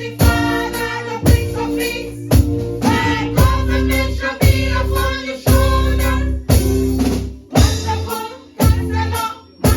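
Church choir singing a gospel praise song over a band with drum kit, a strong beat landing about once a second.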